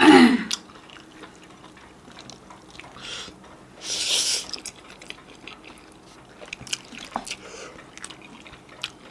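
A person eating close to the microphone: wet chewing and mouth clicks throughout, a short voice sound at the very start, and a brief loud hiss about four seconds in.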